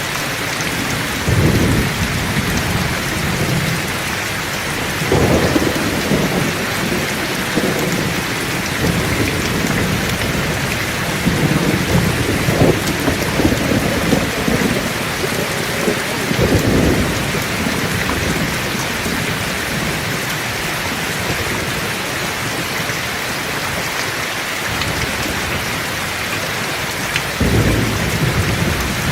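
Heavy rain pouring steadily, with rolls of thunder rumbling through it several times, the loudest a few seconds in, around the middle, and near the end.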